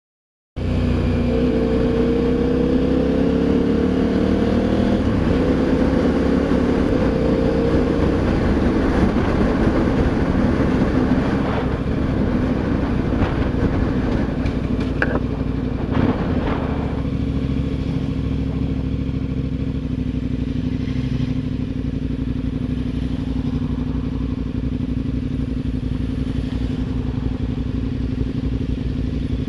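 KTM V-twin adventure motorcycle riding, its engine note climbing in pitch through the first several seconds as it accelerates, then settling into a steady cruising drone. A few sharp knocks come about halfway through.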